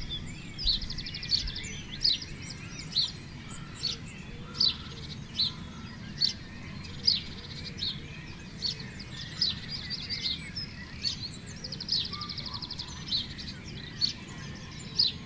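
Small birds chirping outdoors: short sharp calls roughly once a second, with several bursts of rapid trilling, over a low background hum.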